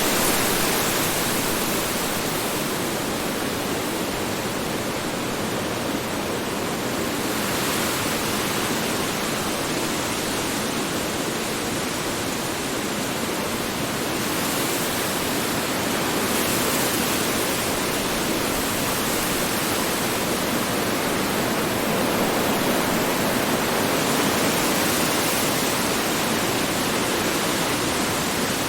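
Strong wind blowing as a steady, dense rushing noise that swells and eases slowly every several seconds.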